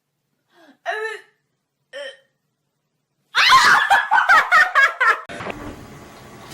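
Two short voiced sounds about a second apart, then a person laughing in a quick run of chuckles for about two seconds.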